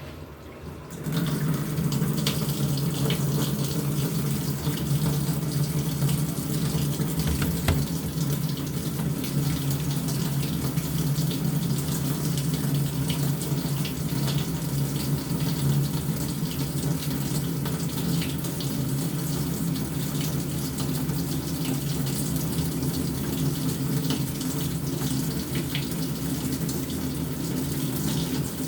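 Water rushing steadily into the tub of an LG top-loading washing machine as it fills at the start of its wash cycle, coming up to full flow about a second in.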